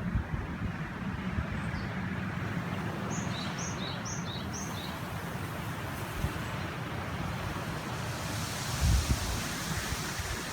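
A river rushes steadily while wind gusts rumble on the microphone. In the middle a bird gives a quick series of about four high, falling chirps.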